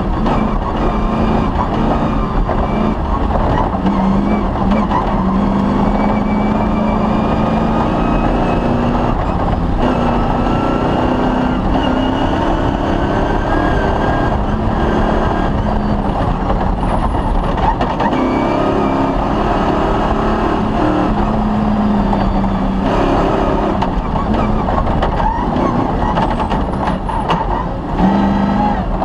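Off-road rally car's engine running hard through a special stage, its pitch rising and falling with throttle and gear changes, over a steady rumble and rattle of the vehicle on rough ground.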